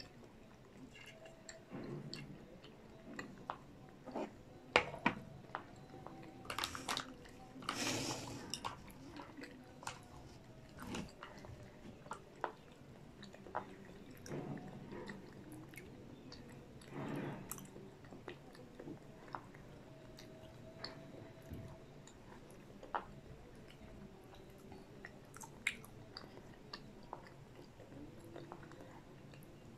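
Close-miked chewing and biting of fried popcorn chicken and potato wedges, with many small scattered clicks and a few louder bursts.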